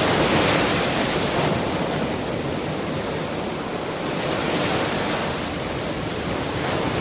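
Ocean surf washing onto a shore: a steady rush of breaking waves that swells and eases slowly.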